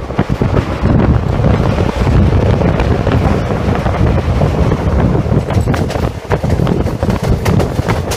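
Passenger train running at speed, heard from on board: wind buffeting the microphone over a steady rumble of wheels on rail. Scattered sharp clicks come in during the second half.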